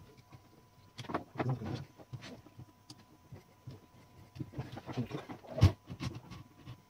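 Irregular clicks and knocks of parts and tools being handled while working on a 1912 Mercedes No. 3 typewriter, with one sharper knock near the end.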